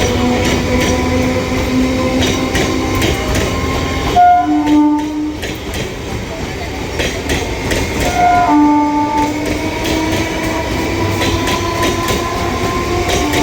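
Train running through the station with its wheels clattering over the rail joints, sounding its horn in two short blasts, about four seconds in and again about eight and a half seconds in.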